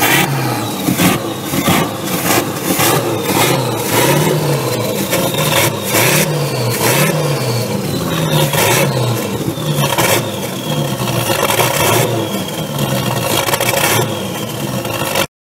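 Car engine revved repeatedly in short blips, about once a second, through a loud exhaust.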